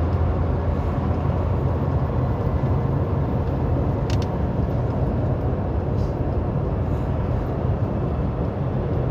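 Steady road and engine noise inside a car cabin at highway speed, with a brief click about four seconds in.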